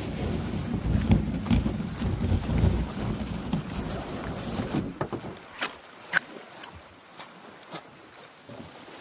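Water sloshing and lapping around a kayak, with wind rumbling on the microphone for about the first five seconds. After that it goes quieter, with scattered drips and light taps.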